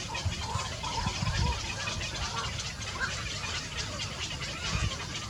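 Birds calling faintly now and then over a steady hiss and low rumble.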